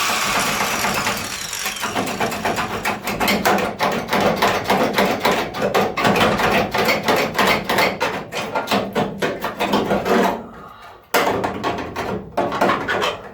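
Rapid, uneven hammer blows on steel car body panels, with a short pause about ten seconds in.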